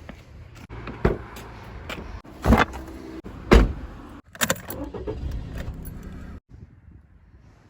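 A series of sharp knocks and clanks with some jingling, over a low steady hum that stops abruptly about six and a half seconds in.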